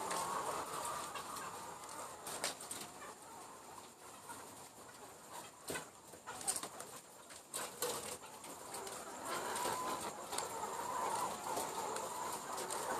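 A flock of young laying hens clucking and calling over one another, with scattered sharp clicks in between. The calling is louder at the start and again near the end.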